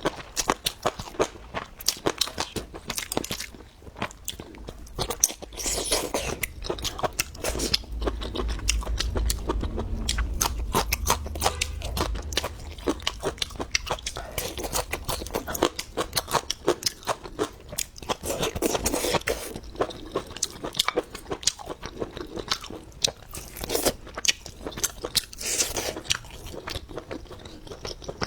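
A person chewing crunchy food close to the microphone, with rapid crisp crunches throughout. A low rumble sits under the chewing from about 8 to 12 seconds in.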